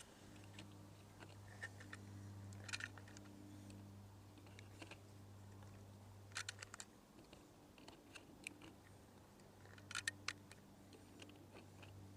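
Faint clicks and clacks from handling a Bergara B14R .22 rimfire rifle, coming in small clusters every second or two over a low steady hum, as a feed malfunction is cleared. No shot is fired.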